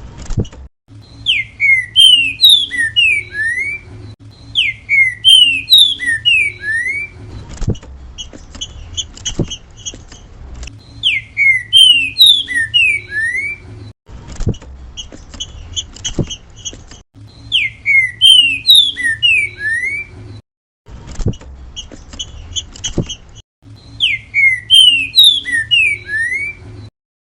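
Green-winged saltator (trinca-ferro) singing its 'grego mole boi' song: five loud whistled phrases of five or six sliding notes, with softer, quicker phrases between them, over a steady low hum.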